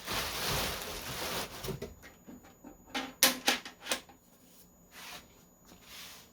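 Packaging crinkling for about the first two seconds, then a handful of sharp clicks and taps as computer parts are handled.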